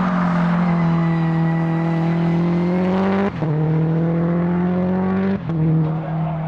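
Race car engine accelerating hard through the gears: the engine note climbs steadily, then drops suddenly at an upshift about three seconds in, climbs again and shifts up once more near the end.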